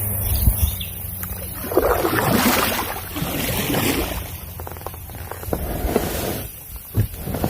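Kayak being brought in at the bank: two rough spells of water sloshing and the hull scraping, with a few scattered knocks, and wind rumble on the microphone at the start.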